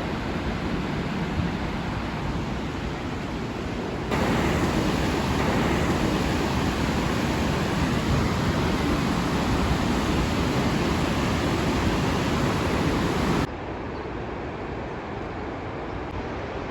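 Rushing roar of the Rhine Falls, a steady wash of falling water. It gets suddenly louder about four seconds in and drops back just as suddenly about three seconds before the end.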